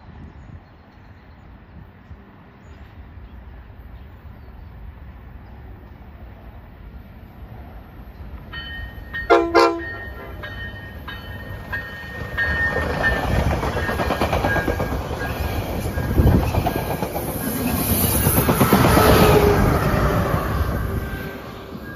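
NCTD Coaster commuter train, cab car leading and Siemens Charger SC-44 locomotive pushing, approaching and passing at speed. Its horn gives a loud short blast about nine seconds in, with a fainter horn tone carrying on a couple of seconds more; then the rumble and clickety-clack of the wheels build, loudest as the locomotive goes by near the end.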